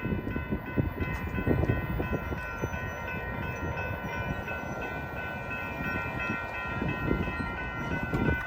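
Freight cars of a mixed freight train rolling past, with irregular clattering and knocking of wheels on the rails and a steady high-pitched ringing held over it.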